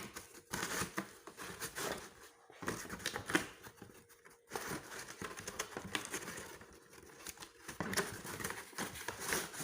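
Cardboard and plastic packaging of a boxed blender rustling and crinkling as it is handled, with scattered small clicks and knocks.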